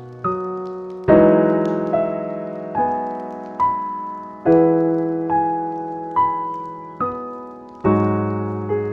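Slow, gentle solo piano music: single notes and soft chords struck about once a second, each ringing out and fading before the next.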